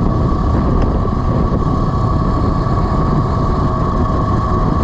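Wind rushing over the microphone during a ride on a Velimotors VMX12-F electric motorcycle, with the steady high whine of its electric motor underneath.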